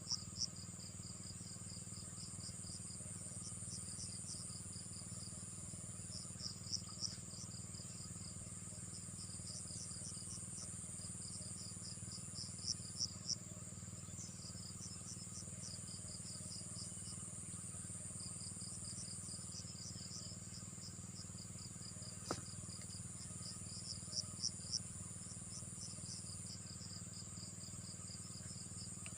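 Crickets and other insects chirping: trains of short, rapid chirps repeating every few seconds over a steady high-pitched insect whine, with a low steady hum beneath. One sharp click about three-quarters of the way through.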